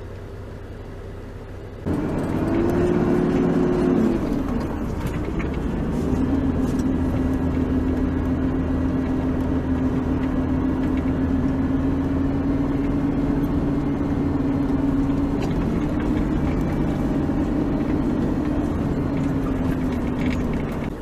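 Four-wheel-drive vehicle's engine running as it drives, a steady drone. About two seconds in the sound jumps suddenly louder; the engine note rises briefly, then drops and holds steady.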